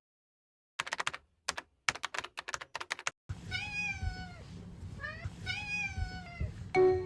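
A quick run of sharp clicks, then a domestic cat meowing: two long meows that dip and rise in pitch, with a short one between them.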